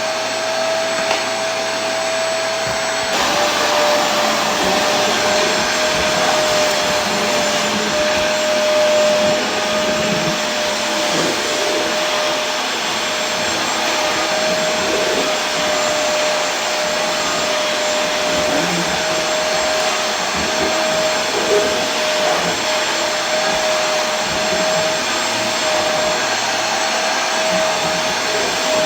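Vacuum cleaner running continuously: a steady rush of air with a constant motor whine, which drops slightly in pitch about three seconds in.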